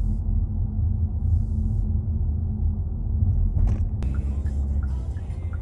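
Steady low road and engine rumble of a Kia Seltos driving, heard inside the cabin. A brief sharp knock partway through, and faint regular ticks in the last part.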